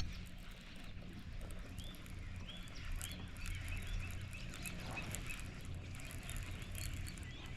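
Birds chirping in many quick, short repeated notes through the middle and latter part, over a low steady hum, with a single sharp click right at the start.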